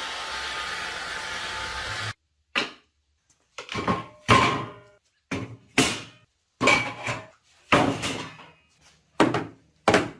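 A steady rushing noise that cuts off abruptly about two seconds in. It is followed by a string of separate knocks and clunks, roughly one a second, each ringing out briefly: parts of an old barbecue grill being handled and set down.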